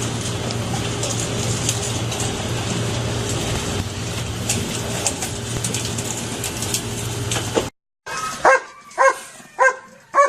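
A dog barking, four sharp barks about half a second apart near the end. Before them is a steady noisy rumble with scattered clicks, which cuts off suddenly.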